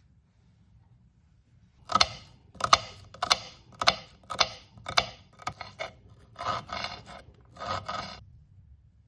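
Kitchen scraping: about eight short rasping strokes, roughly two a second, starting about two seconds in, followed by two longer, slower strokes near the end.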